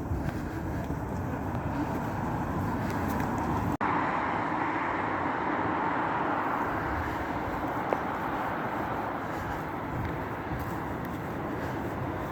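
Steady vehicle running noise with no clear events, broken by a short dropout about four seconds in, after which it carries on with a stronger mid-pitched hum.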